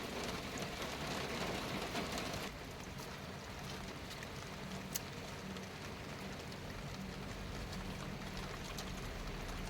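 Steady rain falling, an even hiss; about two and a half seconds in it drops suddenly to a quieter hiss with a faint low hum underneath.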